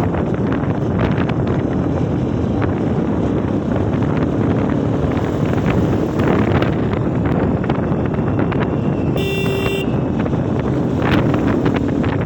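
Steady wind and road rumble of a motorcycle ride, with a vehicle horn honking once, briefly, about nine seconds in.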